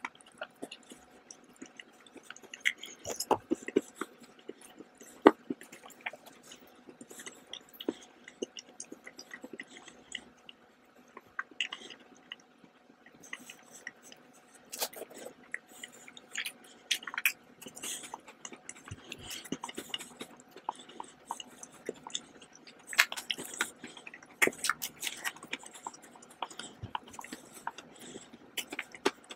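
Close-miked chewing and biting of chocolate: irregular clicks and crunches from the mouth, louder a few seconds in and again near the end.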